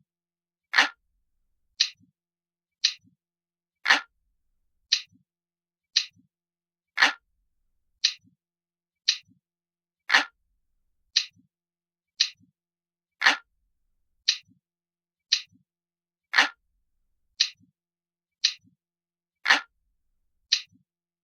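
Ticking clock sound effect: a steady tick about once a second, every third tick louder and fuller than the two between.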